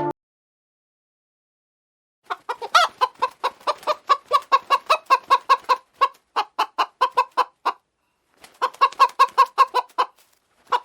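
Chicken clucking: a quick run of short clucks, about four a second, starting about two seconds in, with a brief pause before it picks up again.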